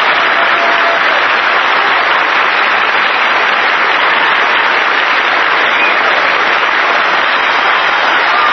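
Studio audience applauding steadily after a musical number.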